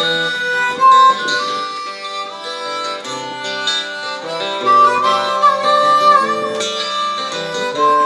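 Harmonica playing a melodic instrumental break of a live acoustic song, with guitar accompaniment underneath.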